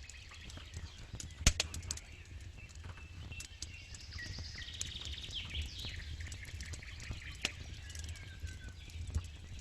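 Campfire crackling with scattered sharp pops, the loudest about a second and a half in, while songbirds sing repeated trilling phrases in the background.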